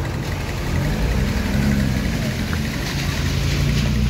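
Car engine running at low revs, a steady low hum that shifts a little in pitch.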